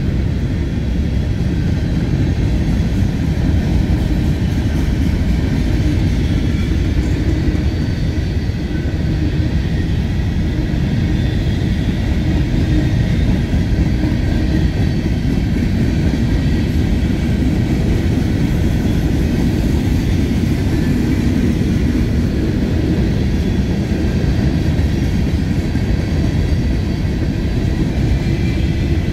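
A freight train's cars rolling past, making a steady, unbroken rumble.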